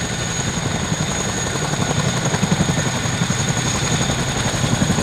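Helicopter running: a pulsing low rumble with a steady high whine.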